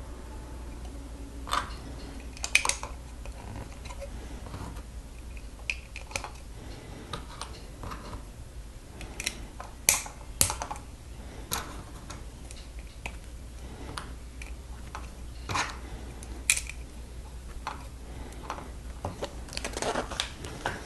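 Plastic Lego bricks clicking and snapping as pieces are handled and pressed together. The sharp clicks come irregularly, every second or so, over a faint low hum.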